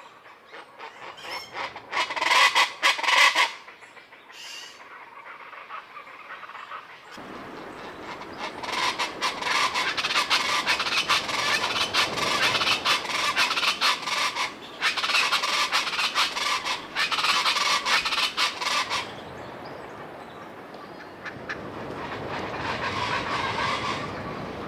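Common chachalacas calling loudly. There is a short burst of rapid repeated calls in the first few seconds. From about seven to nineteen seconds in comes a long stretch of dense calling, several birds together, which then falls to fainter calling near the end.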